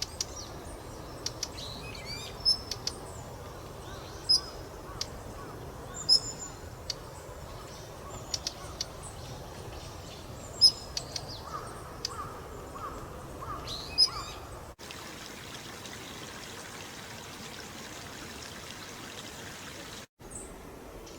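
Daurian redstart calling: thin, high whistled notes mixed with dry clicking notes, repeated every second or two. A short run of about five lower falling notes comes about twelve seconds in. After a sudden cut near fifteen seconds, only steady outdoor background hiss remains.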